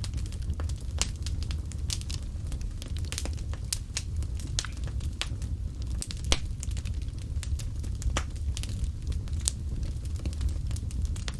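Wood fire crackling in a fireplace: irregular sharp pops and snaps over a steady low rumble, with one louder pop just past the middle.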